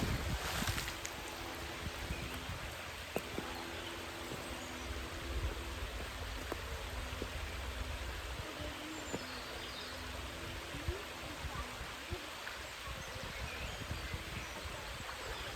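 Outdoor waterside ambience: a steady rushing noise with low wind rumble on the microphone and a few faint bird chirps. A brief louder rush opens it, and a few small clicks come later.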